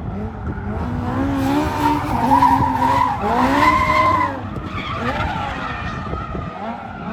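A car's engine revving hard during a burnout, its pitch swinging up and down again and again over the noise of spinning, screeching tyres. It is loudest in the middle.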